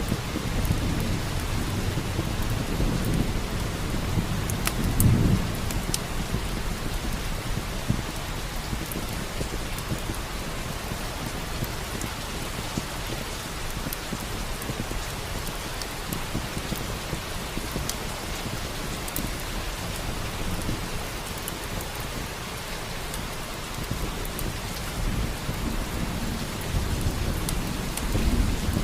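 Steady rain with low rolls of thunder, one swelling to a peak about five seconds in and another near the end, and scattered sharp crackles of a wood fire in a fireplace.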